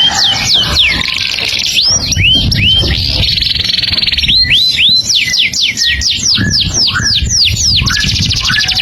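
A songbird sold to bird-song keepers as 'burung ajaib' in full, unbroken song: fast runs of sharp whistles that sweep down in pitch, several a second, mixed with short buzzy trills.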